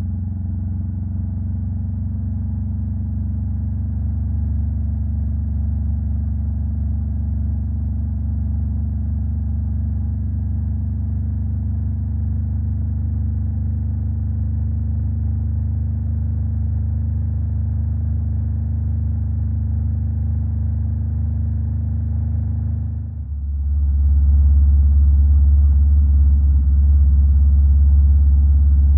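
Honda Rebel 500's parallel-twin engine running through a Vance and Hines aftermarket exhaust, its note held steady. Near the end the note drops lower and grows louder.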